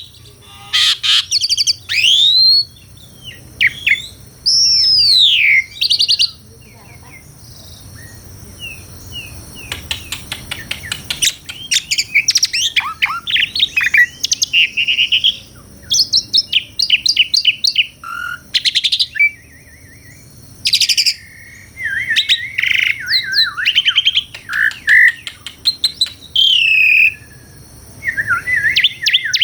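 Asian pied starling (jalak suren) singing a long, varied song: loud swooping whistles that arch up and fall away, broken by fast rattling trills and harsh chattering phrases, with short pauses between bursts.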